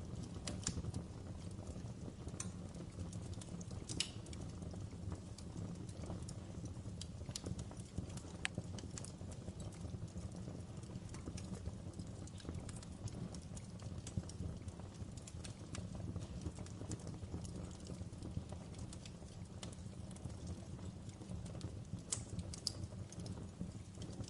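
Fire crackling in a fireplace: a steady low rumble with irregular sharp crackles and pops, a few of them louder.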